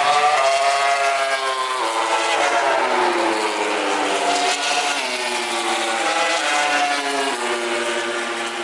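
MotoGP racing motorcycle engine at full throttle, its pitch climbing steadily and dropping abruptly at each upshift as it accelerates through the gears.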